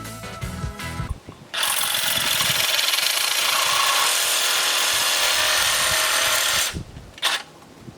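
Reciprocating saw (Sawzall) cutting through the cast metal lip of an engine accessory bracket: a loud, steady cutting noise lasting about five seconds, which stops near the end and is followed by a short burst. Rock music plays under it for the first second or so.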